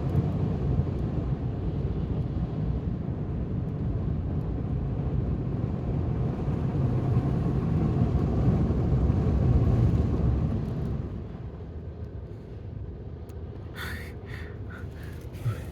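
Automatic car wash machinery working on the car, heard from inside the car's cabin: a steady low rumbling that fades down about eleven seconds in, followed by a few short clicks near the end.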